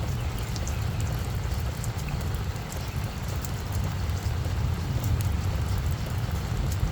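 Steady rain falling on a flower bed, individual drops ticking, over a steady low rumble.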